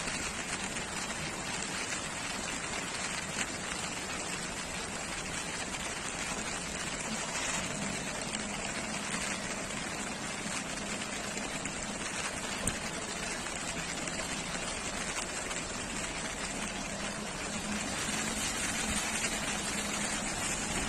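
Steady rain falling, an even hiss with a couple of sharper single taps.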